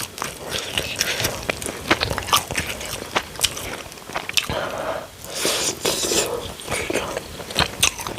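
Close-miked eating sounds: wet chewing and mouth smacking with many sharp little clicks, a few louder, noisier swells about five to six seconds in.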